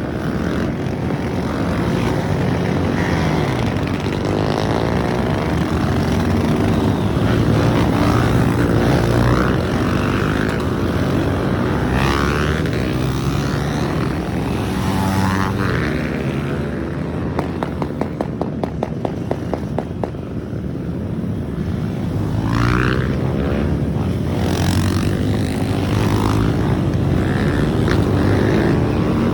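Many trail motorcycle engines running and revving together, with individual bikes rising in pitch as they accelerate away several times. A quick series of ticks comes about two-thirds of the way through.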